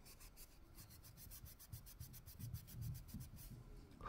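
Faint, quick back-and-forth scrubbing on a straight razor, about seven strokes a second, rubbing rust off the steel. The strokes thin out near the end.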